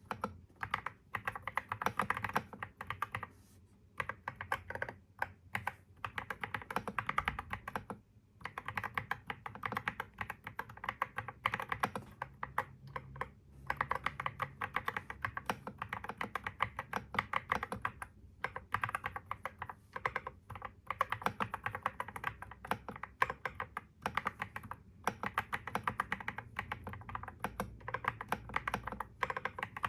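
Computer keyboard typing in quick runs of keystrokes, broken by a few short pauses.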